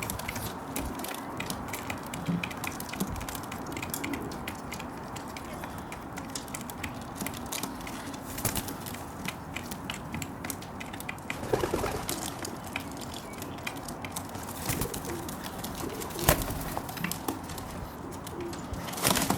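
Juvenile feral pigeon pecking sunflower seeds off a window sill: a run of sharp irregular taps and clicks of beak on seed and sill. A brief low coo a little past halfway.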